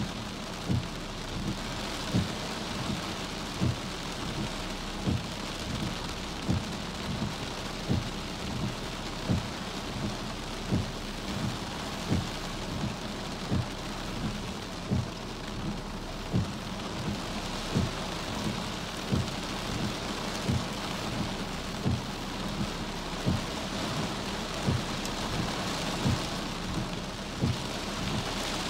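Heavy wind-driven rain pelting a car, heard from inside the cabin, with a short low thump repeating about every one and a half seconds.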